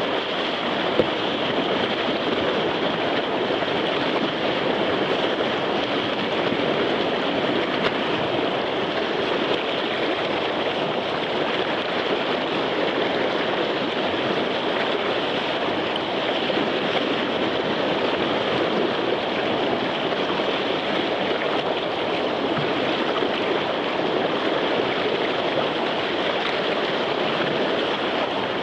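Whitewater of a river rapid rushing steadily, with one brief knock about a second in.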